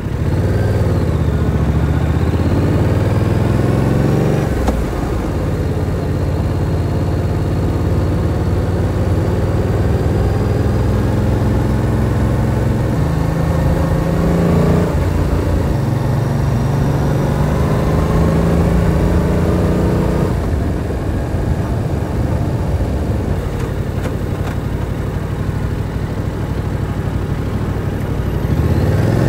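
Yamaha R7's parallel-twin engine pulling on the road. The revs climb over the first few seconds and drop with a gear change about four seconds in, then it runs at a fairly steady pace. About twenty seconds in the throttle closes and the engine note falls, and it picks up again near the end.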